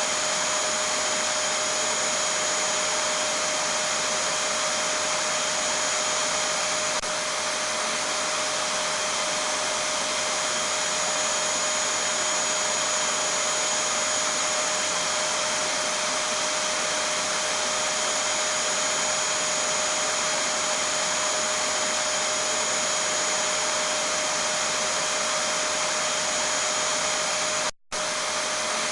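Vacuum cleaner running steadily: a constant rush of air with a steady motor whine, broken by a split-second gap near the end.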